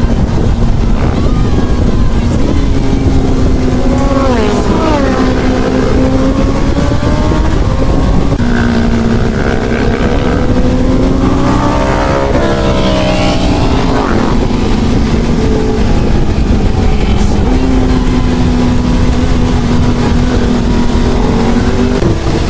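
Honda CB1000R inline-four engine running on the road, its pitch dropping as it slows about four seconds in and climbing as it revs up around ten to thirteen seconds in, over a steady rush of wind.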